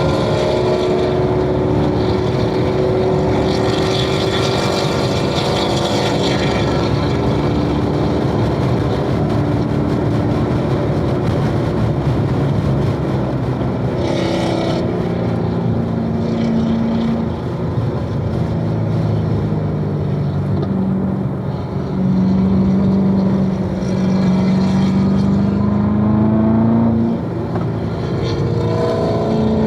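Supercharged 6.2-litre LT4 V8 of a 2016 Corvette Z06 running hard on a race track, its pitch sagging slowly for a long stretch, changing about halfway through, then climbing again as it accelerates, with a quick rise near the end.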